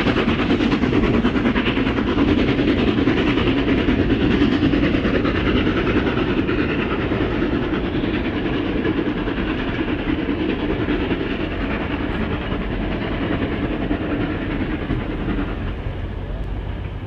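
A train running along the track, with a steady rattle of wheels over the rails that slowly grows quieter over the last several seconds.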